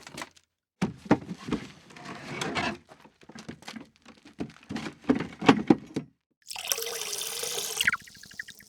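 Water sounds in a sink: irregular splashing and sloshing for several seconds, then a tap running steadily for about a second and a half, followed by a few faint drips.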